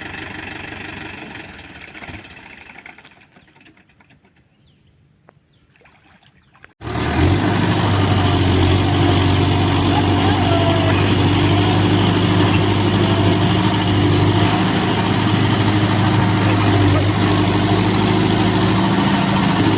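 Tractor diesel engine running and fading away over the first few seconds. After an abrupt cut about seven seconds in, a tractor diesel engine runs loud and steady.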